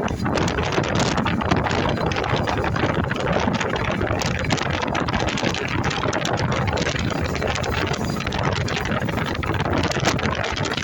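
Train in motion: steady running noise with wind blowing across the microphone.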